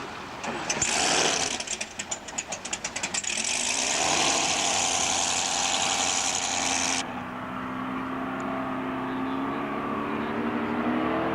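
Racing power boat engine: a loud rushing blast with a fast sputtering run of pulses, cutting off suddenly about seven seconds in, then an engine tone that climbs steadily in pitch.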